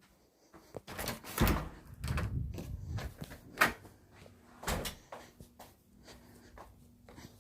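Several sudden knocks and thumps, like a door being handled or banged, with the sharpest knock about three and a half seconds in, over a faint steady hum.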